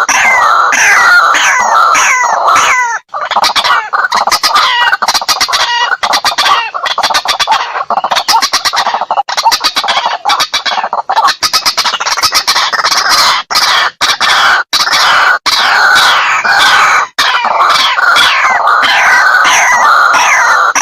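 White-breasted waterhen calling loudly and without pause: repeated, descending, croaking 'kru-ak' notes, with a faster chattering run of short notes through the middle.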